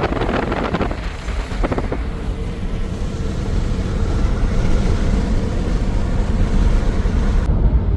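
Steady low rumble and wind noise of a car driving at highway speed.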